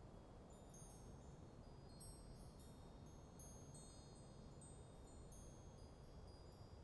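Faint metal wind chimes tinkling in a light breeze, many high ringing notes struck at irregular moments, over a low steady rush of wind.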